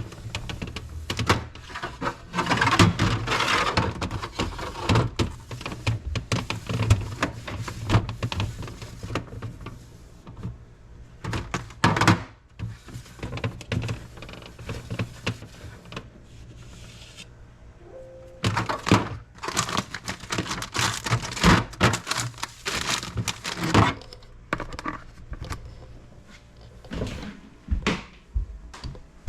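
Repeated knocks, clatter and rubbing as items and shelves are handled and wiped while a refrigerator is cleaned, over background music.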